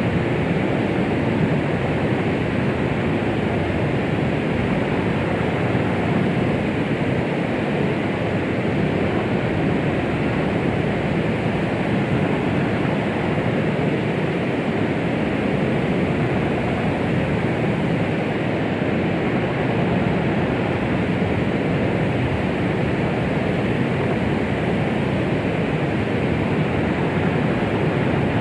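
Steady synthetic shushing noise, weighted toward the low end and unchanging throughout: noise played as a womb-like sound to calm a baby.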